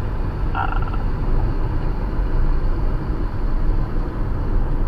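Steady low road and engine rumble inside a car cruising on a highway, with one brief short sound about half a second in.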